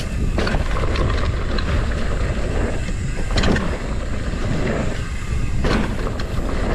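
Wind buffeting a GoPro on a mountain bike rider descending a dirt trail, with steady tyre rumble and three sharper clatters of the bike over bumps.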